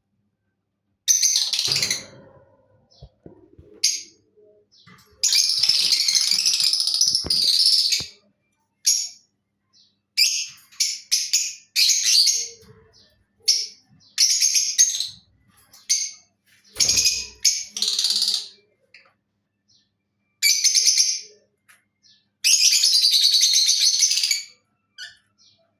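Lovebird giving shrill, high-pitched chirps and screeches in bursts, with longer runs of rapid chatter in the middle and near the end, separated by short silences.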